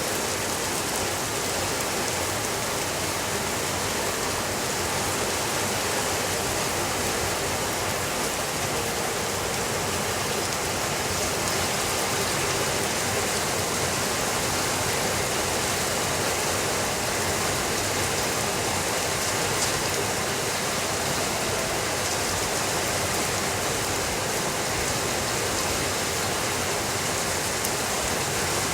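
Steady rainfall: an even, unbroken hiss with a few faint ticks.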